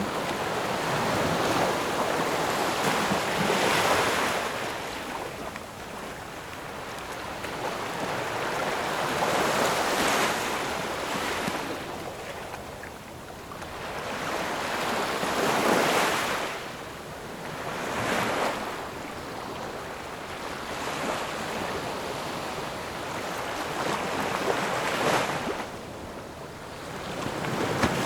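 Gentle ocean waves breaking and washing ashore, swelling to a louder surge every few seconds and then easing off.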